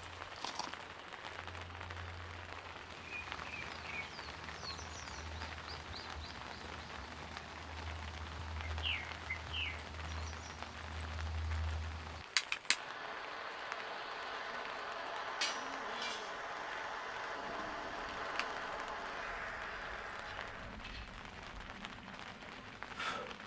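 Steady rain with a few short bird chirps over a low hum. About halfway through, the sound cuts sharply to a different steady rain patter, without the hum, with a few single taps.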